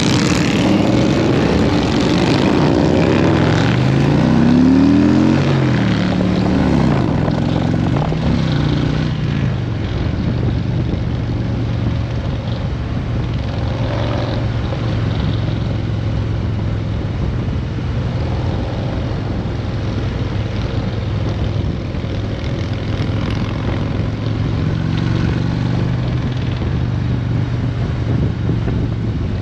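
Motorcycle engine pulling away, its pitch rising and dropping back several times in the first eight seconds or so as it shifts up through the gears, then running at a steady cruise.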